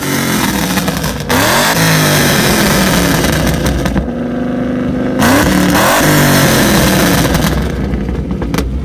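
Car engine revved hard several times while parked, each blip sweeping up in pitch, with steadier running between the revs.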